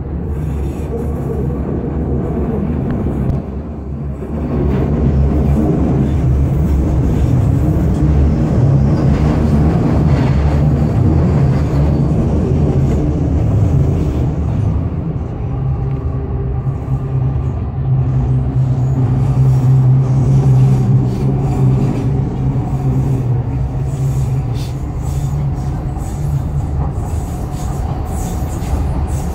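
Docklands Light Railway train running on elevated track, heard from inside the carriage: a steady low rumble and hum of wheels and running gear, louder from about five seconds in as it gets under way. Near the end another train passes alongside.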